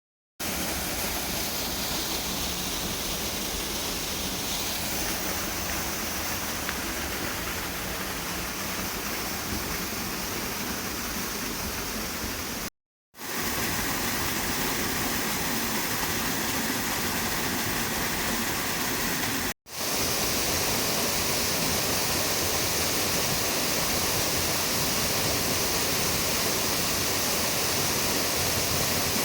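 Waterfall rushing, a steady full roar of falling water, cut off twice by brief silent breaks where the recording is edited.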